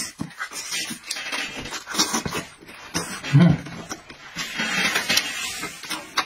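Close-up eating sounds of roast sheep-head meat: wet chewing, lip-smacking and clicks, with a short low hum from the eater about halfway through.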